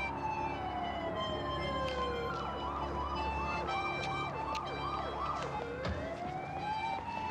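Emergency vehicle siren sounding a slow falling wail, switching about two and a half seconds in to a fast yelp of about three sweeps a second, then rising back into a slow wail near the end.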